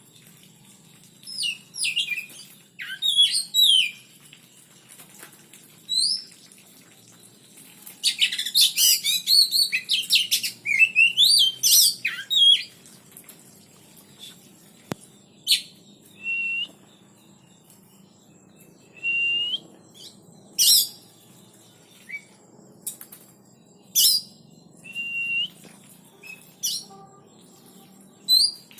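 Oriental magpie-robins (kacer) calling in a cage: scattered short whistles and chirps, with a dense run of song about a third of the way in and a few sharp clicks later on.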